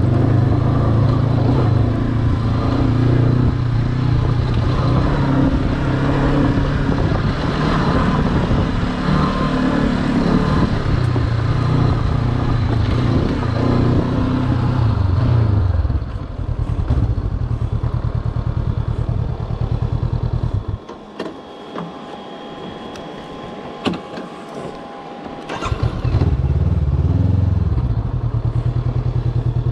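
Honda CB500X parallel-twin motorcycle engine running under way, easing off about two-thirds of the way in. It then falls quiet for a few seconds with a few clicks, and pulls strongly again near the end.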